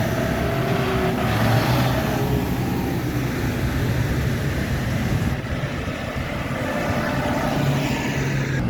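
Engines of tractors and other vehicles running as they drive past, with a steady low engine drone throughout.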